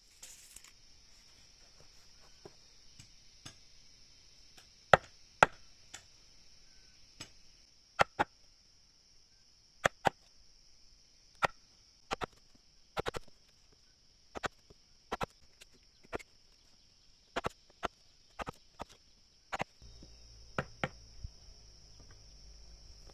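Repeated sharp strikes of a tool on wood, often in quick pairs about every second or so, stopping a couple of seconds before the end. A steady high insect buzz runs underneath.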